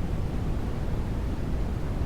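Steady white-noise track, a constant deep rumbling hiss with most of its weight in the low end and no changes or events.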